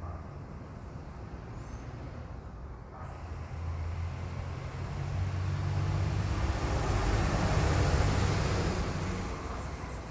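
A motor vehicle passing by, with a low engine hum and a rush of tyre noise that builds from about three seconds in, is loudest near eight seconds, then fades.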